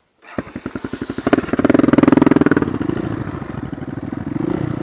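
Dirt bike engine starting: the firing pulses come in quickly, it revs up briefly about two seconds in, then settles into a steady fast idle.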